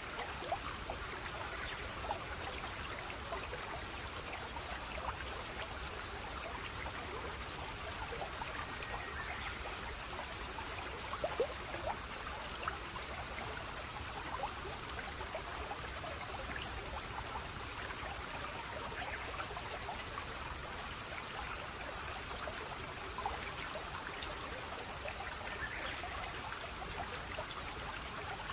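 Running water of a small stream trickling steadily, with small drips and splashes scattered through it.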